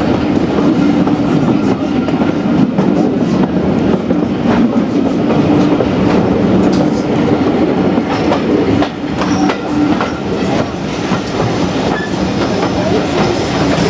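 Railway carriage running along the track, a steady rumble with the wheels clicking over rail joints.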